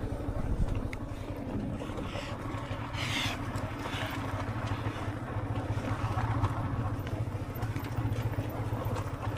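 Motorbike engine running steadily while riding, a continuous low rumble.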